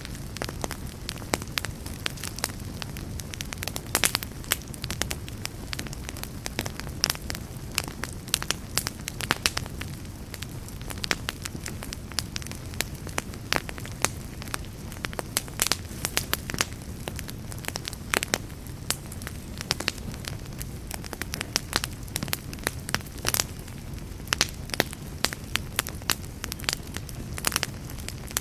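Wood fire crackling in a fireplace: dense, irregular snaps and pops, a few sharper ones standing out, over a low steady rumble.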